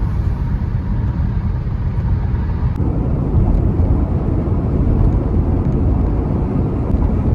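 Steady rumble of a car driving on the road, engine and tyre noise heard from inside the moving car, growing a little fuller about three seconds in.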